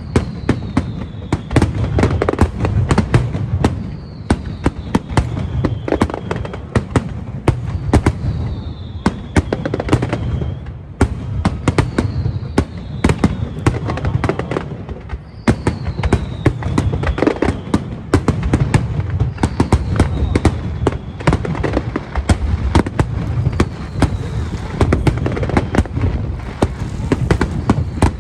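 Fireworks display: a dense, continuous barrage of rapid bangs and crackles over a deep rumble. A faint falling whistle recurs every few seconds.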